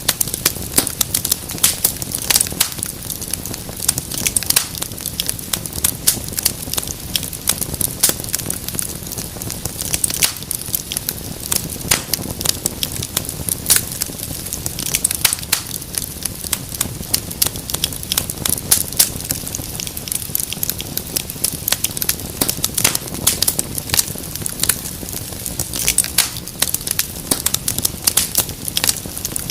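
Wood fire crackling in a fireplace: a dense, irregular stream of sharp pops and snaps over a low, steady rumble of burning.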